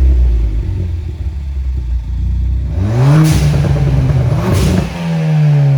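Ford Fiesta ST's turbocharged engine through a Maperformance aftermarket exhaust, idling, then revved up about three seconds in and blipped again before the revs fall back toward idle near the end.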